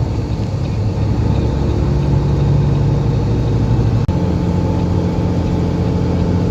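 Semi truck's diesel engine running under way, heard inside the cab as a steady low drone. About four seconds in the sound dips briefly and the engine note changes to a new steady pitch.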